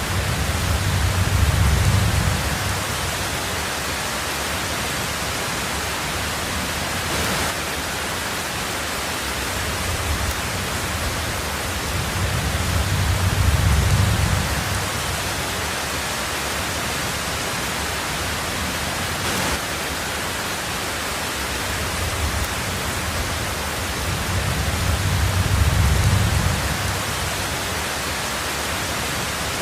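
Heavy rain on a tin roof, a steady dense hiss, with a low thunder rumble swelling and fading three times, about every twelve seconds.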